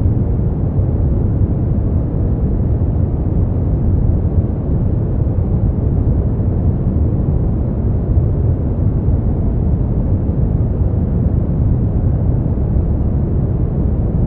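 Continuous sleep-aid noise track, a steady deep rushing hiss with most of its weight in the low end and no high treble, unchanging throughout.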